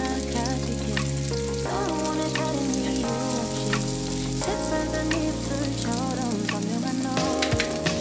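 Sliced onions frying in a pan: a steady sizzle with small crackles, under background music.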